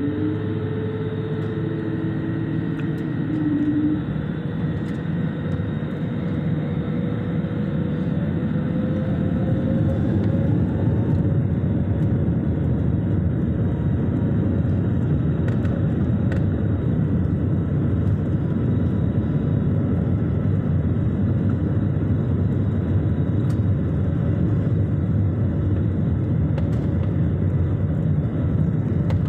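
Airliner jet engines running with a steady heavy rumble. The rumble swells about four seconds in, and a tone climbs slowly in pitch a few seconds later as the engines spool up for takeoff.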